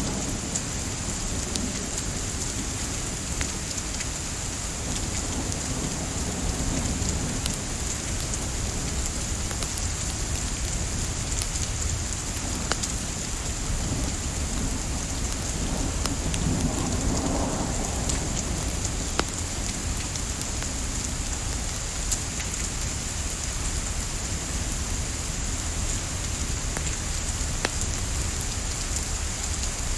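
Steady rain hiss mixed with a wood fire, its crackles heard as scattered sharp pops. A low rumble swells twice, around six and again around seventeen seconds in.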